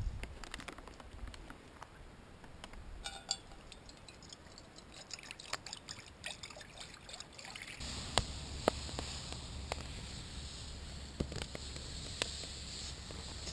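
Campfire crackling with scattered sharp pops; about eight seconds in, a steady hiss joins in under the pops.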